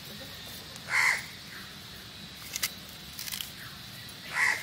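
A crow cawing twice, one short caw about a second in and another near the end, with a few faint clicks in between.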